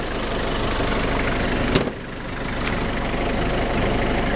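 Toyota Blizzard's 2.4-litre 2L-T turbo diesel idling steadily, with one sharp click about two seconds in.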